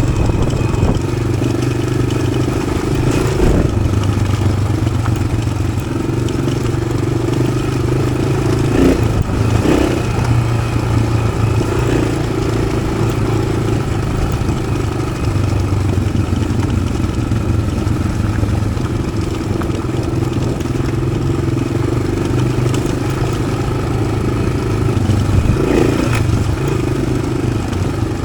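Single-cylinder engine of a 1993 Yamaha XT600 with an Arrow exhaust, running as the bike is ridden off-road, its pitch stepping up and down every few seconds with throttle changes. A few short knocks and clatters from the bike over rough ground, around three, nine to ten and twenty-six seconds in.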